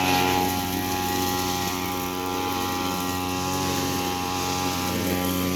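A steady mechanical drone holding one even pitch.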